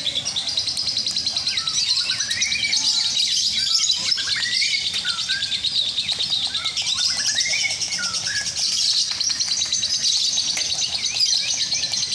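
Lovebirds singing in a rapid, unbroken high-pitched chatter, the long trilling song of contest lovebirds, with a few short lower rising notes mixed in, mostly in the first half.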